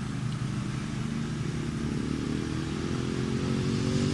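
Kawasaki KLX110L dirt bike's small four-stroke single-cylinder engine running, its pitch climbing and getting louder through the second half as it revs up.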